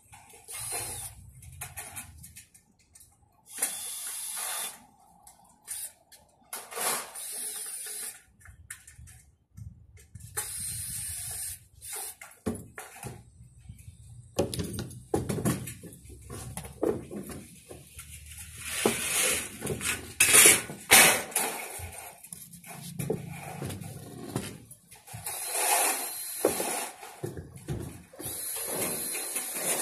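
Cordless drill driving screws into the shed's metal frame in separate bursts of about a second, with metal frame channels clattering and knocking as they are handled between bursts, loudest about two-thirds of the way through.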